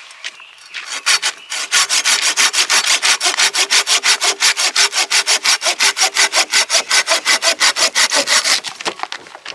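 Hand saw cutting through wood with fast, even back-and-forth strokes, starting about a second in and stopping shortly before the end.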